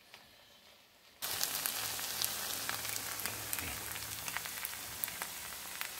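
Near quiet for about a second, then a pan of rice with peppers and mushrooms starts sizzling and crackling steadily, with many small pops.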